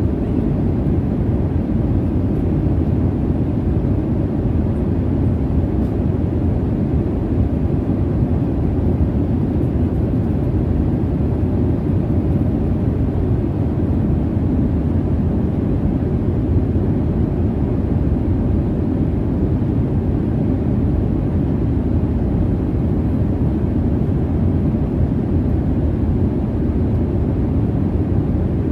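Steady, low jet airliner cabin noise in flight: an even rumbling hiss of engine and airflow, strongest in the low end and unchanging throughout.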